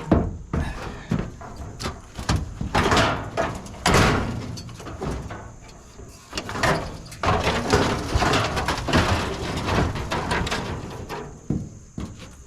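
Scrap metal clanking and scraping as heavy pieces are dragged and dropped into a truck bed, with a string of irregular sharp knocks.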